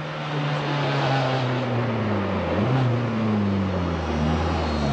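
Rally car engine approaching and slowing, its note falling steadily as it comes in to stop, with a brief rise in pitch about halfway through.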